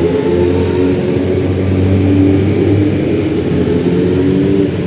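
Several motorcycle engines running at once at low revs, their pitches holding and slowly rising, as bikes ride by together.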